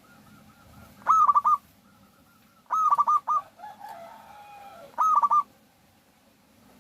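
Zebra dove (perkutut) cooing: three short phrases of quick, clipped repeated notes, a second and a half to two seconds apart. A fainter, lower wavering call sounds between the second and third.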